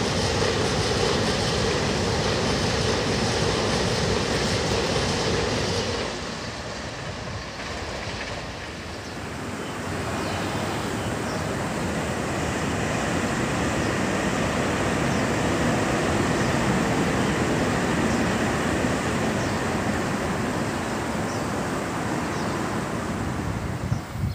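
TRA EMU3000 electric multiple-unit express train passing over a bridge, with a steady rolling noise of wheels on rails. The sound changes abruptly about six seconds in, then a second pass builds up and holds.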